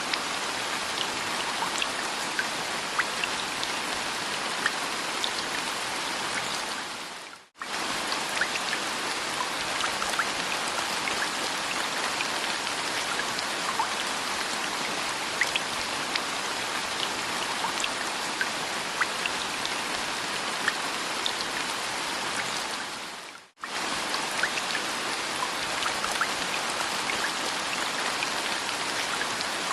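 Steady rain, an even hiss with many individual drops ticking through it. It fades away briefly and cuts back in abruptly twice: once about a quarter of the way in and again near three-quarters.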